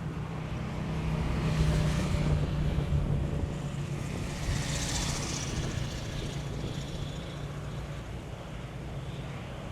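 A motor vehicle passing along a road, its low engine hum swelling about a second in and a tyre rush peaking near the middle before fading. Wind buffets the microphone throughout.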